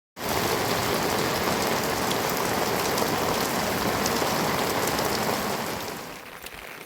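Heavy rain falling in a steady downpour, easing to a quieter level about six seconds in.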